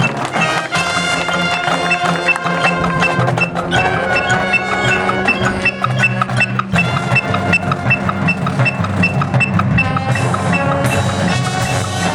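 Marching band playing its field show: sustained brass and wind chords over mallet percussion and chimes, with a steady high tick keeping the beat about three times a second.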